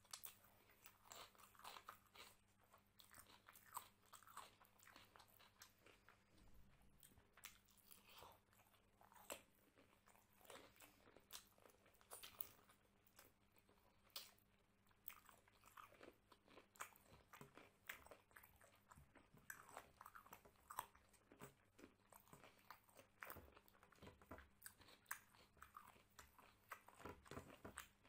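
Faint eating by hand: many irregular short crunches and chewing as a mouthful of rice, mutton curry and raw cucumber is bitten and chewed.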